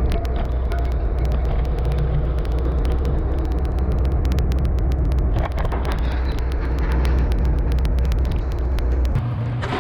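Skid steer engine running steadily under load, with frequent sharp clicks and rattles over it; the engine note changes abruptly near the end.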